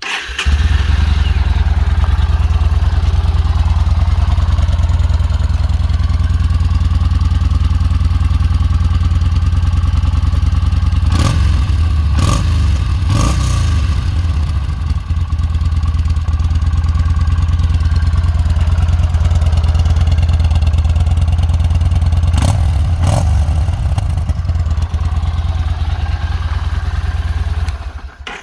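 Yamaha Bolt 950's air-cooled V-twin running steadily through its exhaust, loud and deep, with a few short sharp bursts about eleven to thirteen seconds in and again about twenty-two seconds in.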